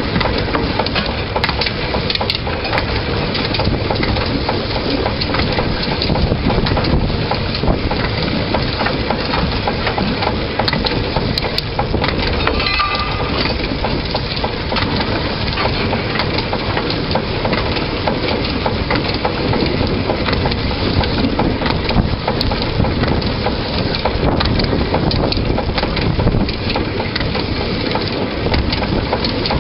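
Narrow-gauge locomotive running along the track, heard from the engine itself: a loud, continuous rattle and clatter of wheels on the rails and the running gear.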